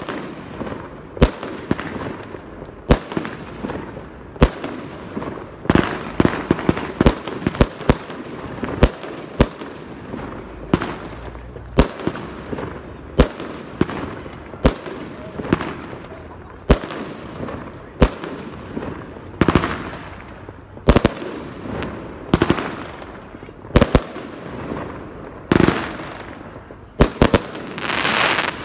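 Consumer canister shells firing in sequence: a steady run of sharp bangs from launches and bursts, about one or two a second, some in quick pairs. Near the end there is a dense crackling from glitter breaks.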